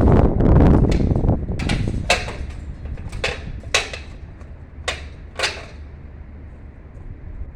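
A low rumble, then six sharp knocks in three pairs, the knocks of each pair about half a second apart.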